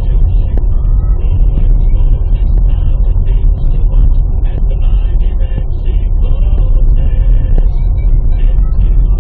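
Car interior while driving: a steady, loud low rumble of engine and tyres, with a voice from the car radio faint and thin above it.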